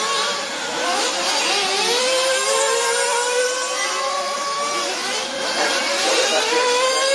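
Several radio-controlled off-road buggies' small glow-fuel (nitro) engines racing, their high-pitched notes overlapping and repeatedly rising and falling as they rev up and back off through the track.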